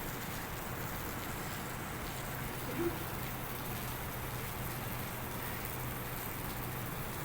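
Steady hiss with a low, even hum underneath, with a brief short voice sound about three seconds in.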